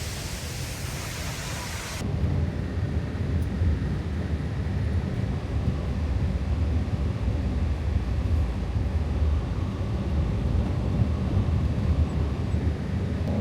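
Steady rushing-water hiss that cuts off abruptly about two seconds in, replaced by a low, steady rumble.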